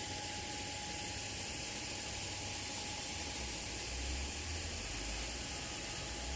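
Steady hiss over a low diesel engine rumble that swells and fades, with a faint steady whine throughout.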